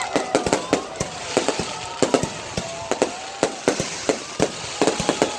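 Fireworks going off: a rapid, uneven string of sharp bangs and pops over a steady crackling hiss, with whistling tones that hold for about a second and bend downward between the bangs.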